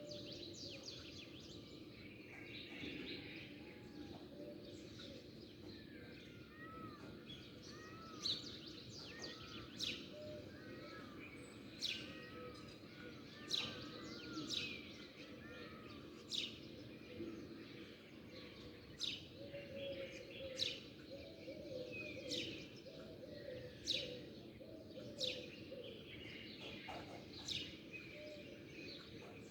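Small birds chirping and calling over a steady low background hum. From about eight seconds in, sharp high chirps that drop quickly in pitch come every second or two, with softer rising-and-falling notes between them.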